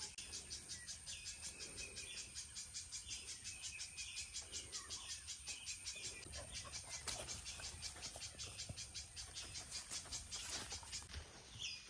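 Insects chirping in a steady high-pitched pulse, about five or six pulses a second, with a few faint bird calls.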